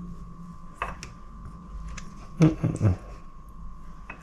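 Kitchen handling noises: a single click about a second in, then a short cluster of knocks around the middle, over a steady hum.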